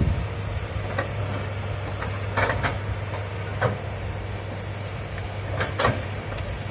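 Hitachi excavator's diesel engine running steadily, with several sharp knocks and cracks over it.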